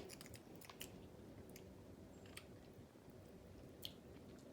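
Faint chewing by a child, with scattered small mouth clicks over a quiet room background.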